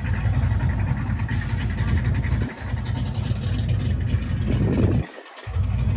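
A car engine running, a steady low rumble that dips briefly about two and a half seconds in and drops out for a moment about five seconds in.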